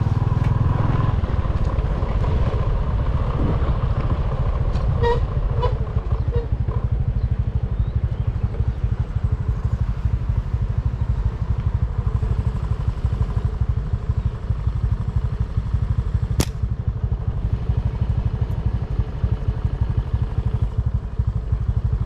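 A small engine running steadily, its low rumble made of rapid even pulses. A few short high tones sound around five seconds in, and a single sharp crack about sixteen seconds in.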